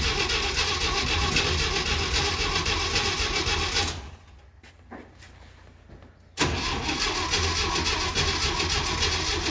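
1969 Jeep Willys CJ5 engine cranking on its starter without catching, a cold hard start after seven months of sitting. The cranking stops about four seconds in, then starts again after a pause of about two and a half seconds.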